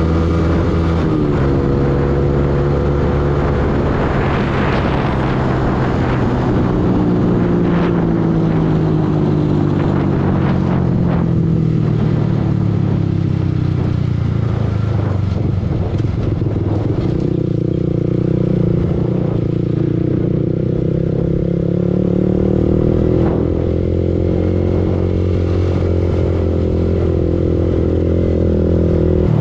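Yamaha R15 V2's single-cylinder four-stroke engine running under the rider. Its pitch falls gradually over the first dozen seconds as the bike slows, then holds steadier with small rises and dips.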